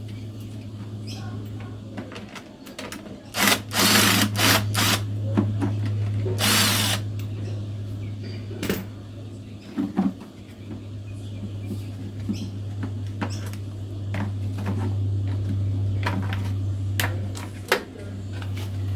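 Several short bursts of a cordless drill-driver between scattered clicks of tools and parts, over a steady low hum.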